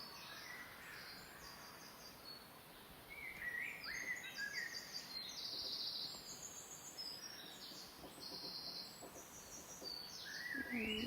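Birds singing outdoors: chirps and whistled phrases that glide in pitch, with short, rapid high trills repeating every second or so.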